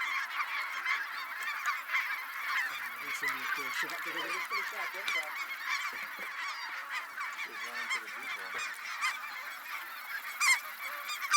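A large flock of snow and Ross's geese calling together, a dense continuous chorus of high, yelping honks, with a few louder single calls near the end.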